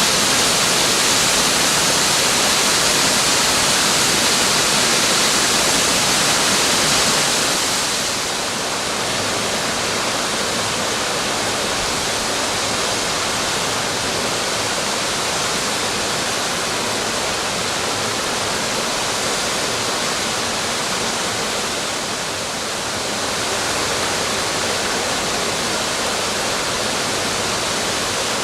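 Waterfall pouring: a steady rush of falling water, a little lower in level from about seven seconds in.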